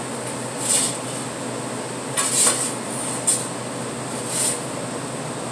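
Steady fan hum with four short, high-pitched metallic scrapes.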